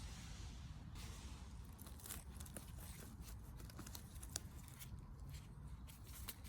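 Faint rustling and crackling of forest-floor leaf litter being stepped on or disturbed while mushrooms are picked, with scattered small snaps and one sharper click about four seconds in.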